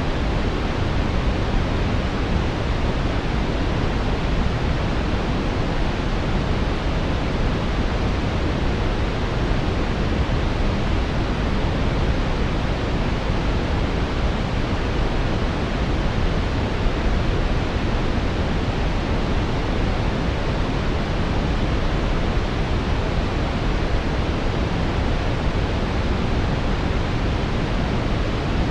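Synthetic brown noise: a steady, even rushing hiss, deepest and strongest in the low end, with no changes or interruptions.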